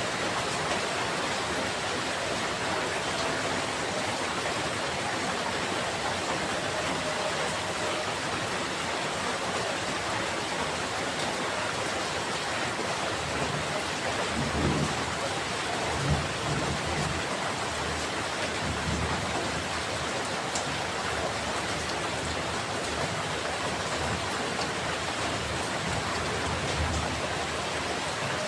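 Steady heavy rain hissing, with low rolls of thunder rumbling for several seconds about halfway through and briefly again near the end.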